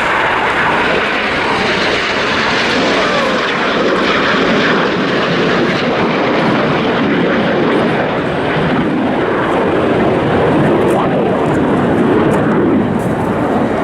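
BAE Hawk T1 jets, each with a single turbofan, flying past in a loud, steady rush of jet noise.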